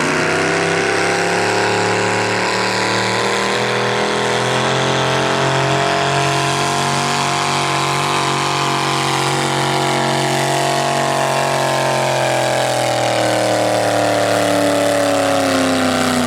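Diesel engine running steadily at a fixed speed, its pitch rising slowly, then falling off over the last few seconds.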